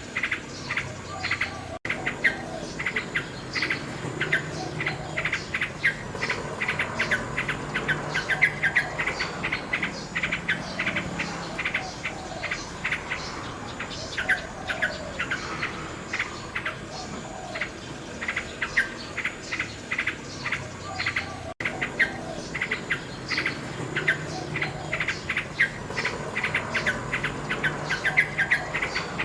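Common nightingale singing: rapid series of repeated notes and chirps, over a steady high-pitched background drone. The audio drops out for an instant twice.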